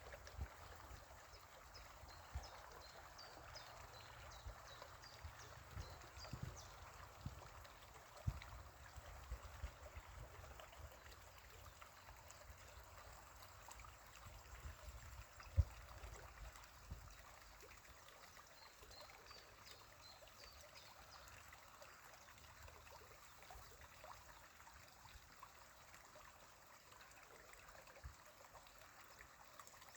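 Spring water trickling faintly as a steady soft rush, with scattered low thumps and two brief runs of faint high chirps.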